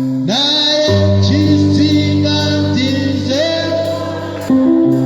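Gospel hymn sung with instrumental backing: sustained bass and chord notes change every second or so under the singing voices.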